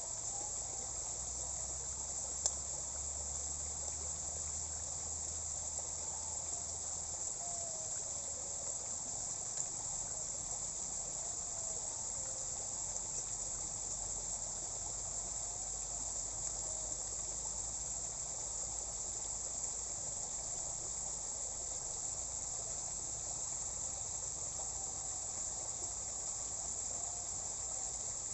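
A steady, high-pitched chorus of crickets and other insects, running without a break.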